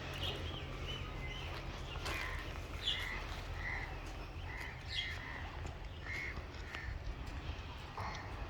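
Birds calling outdoors: short, repeated notes every second or so, over a steady low rumble.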